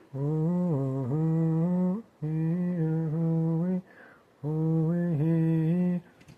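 A man humming a slow, chant-like tune in three long phrases, each mostly a steady held low note with brief dips in pitch.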